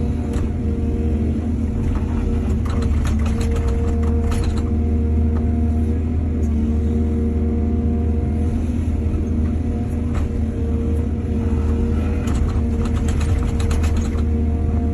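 Heavy earthmoving machinery's diesel engine running steadily under load, with two spells of rattling clatter, one about two seconds in and one near the end.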